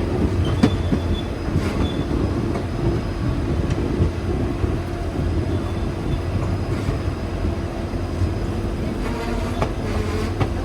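Passenger train heard from on board, running steadily with a continuous rumble and scattered clicks of the wheels over rail joints.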